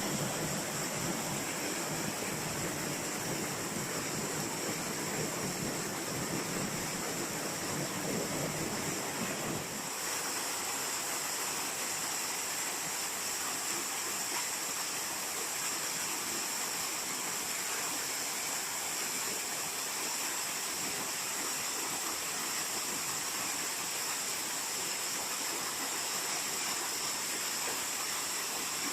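Waterfall: a steady, even rush of falling water. About ten seconds in, the deeper part of the rush drops away abruptly, leaving a thinner, hissier sound.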